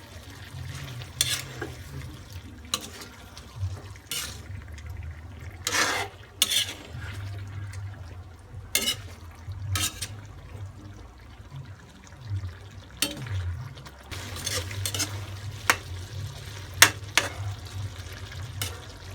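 Spoon stirring meat in a cooking pot, with irregular clinks and scrapes against the pot over a steady low hum.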